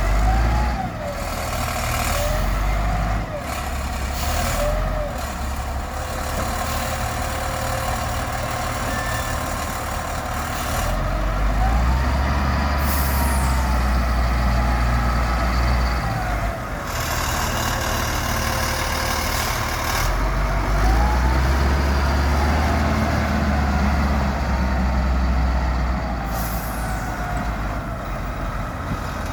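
Heavy diesel engines working while a dump truck is loaded with sand: steady running with two long surges of higher power, and occasional hisses of air.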